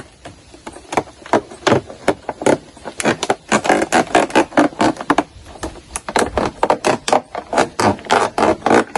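Knife cutting through a thin plastic water bottle: a rapid, irregular run of clicks and scrapes from the plastic, busier from about three seconds in.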